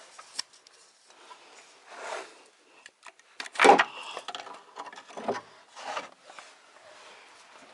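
Irregular scraping and knocking of hand tools and metal parts being worked on a car engine, with one louder scrape a little over three and a half seconds in.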